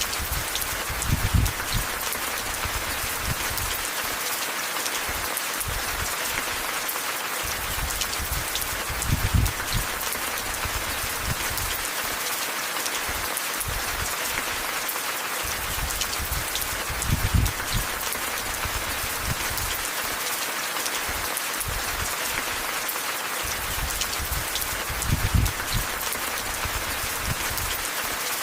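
Steady rain falling, an even hiss with scattered sharp drop ticks. A short low rumble swells about every eight seconds.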